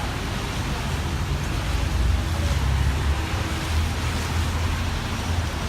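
Road traffic on a city street: a steady rumble and hiss of passing vehicles, with gusty typhoon wind buffeting the microphone in the low end.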